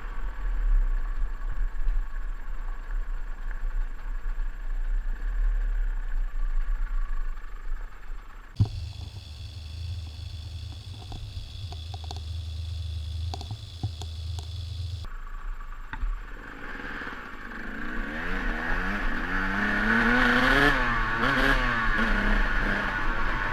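Two-stroke dirt bike engine running at low revs on a steep, rough downhill trail, with clattering and scraping along the way. Past the middle the sound changes abruptly, and near the end the engine revs rise and fall repeatedly and grow louder.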